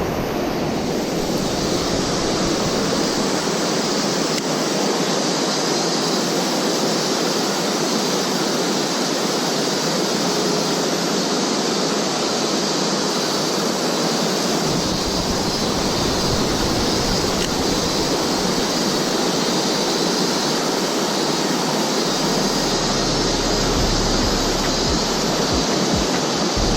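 Mountain stream flowing, a steady rushing water noise, with a low rumble coming in near the end.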